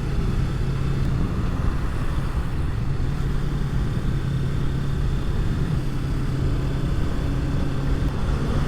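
Yamaha MT-03 motorcycle engine running at a steady cruising speed on the highway, its note holding level, with a low wind rumble over it.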